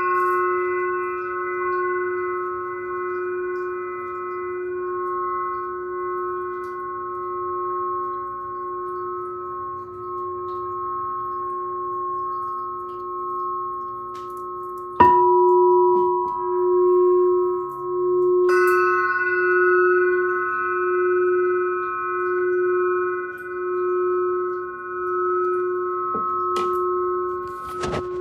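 Singing glass pyramid and bowl ringing on with a steady low hum under several higher overtones. About halfway through a fresh strike sets the low tone wavering in slow pulses, about one a second, and a few seconds later another strike adds bright high tones.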